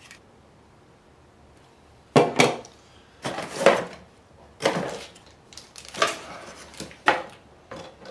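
Camera accessories and their packaging being handled: quiet at first, then a string of short knocks, clicks and rattles from about two seconds in.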